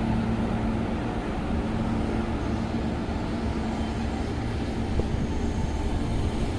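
Long passenger train rolling through the station yard at a distance: a steady rumble of its coaches running over the track.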